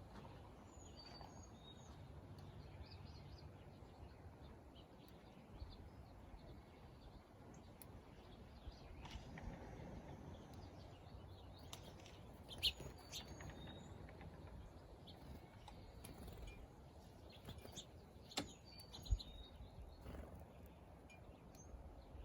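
Small birds chirping and calling intermittently in short, high notes over a faint low outdoor rumble, with a couple of brief sharp taps.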